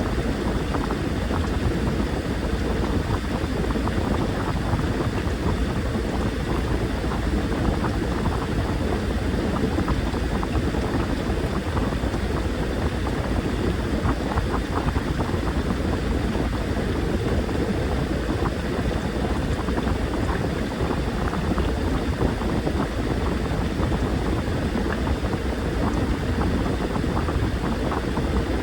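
Washing machine running, with water and laundry churning in the drum over the motor's hum, steady throughout.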